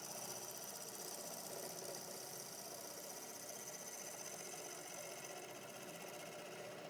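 Omega Stubby 750 wood lathe running steadily, with a steady high whine over the machine noise.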